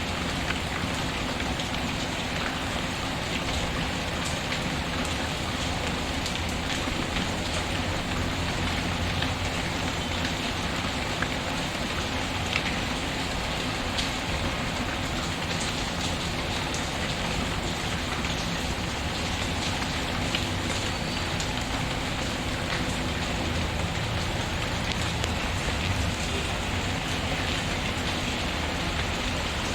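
Steady rain falling, with scattered sharp clicks and pops from a crackling wood fire.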